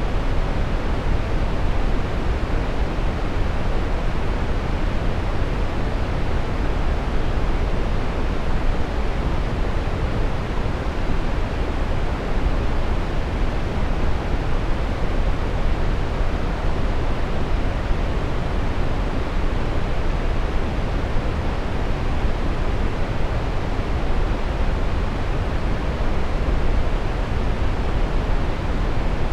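Steady brown noise: an even, unchanging rushing hiss weighted toward the low end, with no tones or events.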